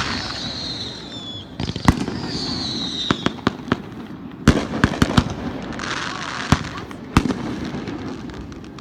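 Fireworks display: sharp bangs from bursting shells come at irregular intervals, with a falling whistle about two seconds in and a crackling burst around six seconds in.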